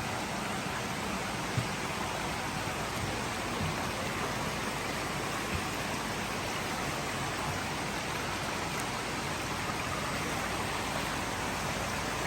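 Steady rush of running and splashing water from the koi ponds' filtration and water returns, with one faint knock about a second and a half in.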